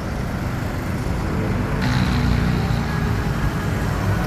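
Road traffic noise: a steady low rumble of passing vehicles, with a louder vehicle sound coming in about two seconds in.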